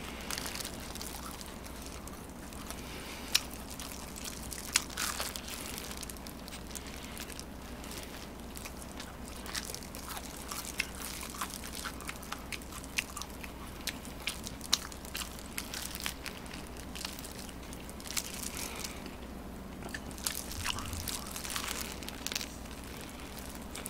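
Close-miked biting and chewing of fried chicken, with short sharp crunches scattered all through, over a steady low hum.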